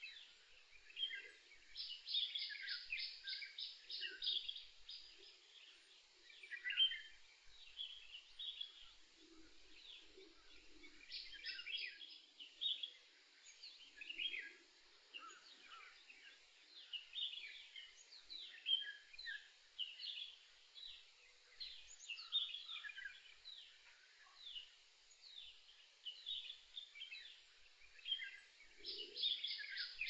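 Several small birds chirping and singing, with rapid trills of short repeated notes and scattered calls overlapping throughout.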